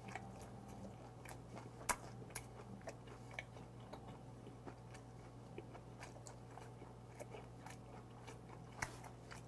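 Quiet close-up chewing of a mouthful of gwamegi wrapped in dried laver: soft crunches and small mouth clicks scattered throughout, one sharper click about two seconds in. A low steady hum lies underneath.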